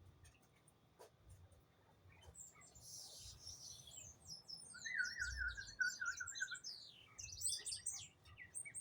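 Small birds chirping and twittering, starting about two and a half seconds in: many quick high chirps, with a fast run of repeated notes around the middle.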